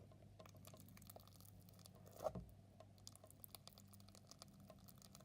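Slime packed with micro foam beads being squished and pressed by hand: faint, soft crackling and popping, with one slightly louder squish about two seconds in.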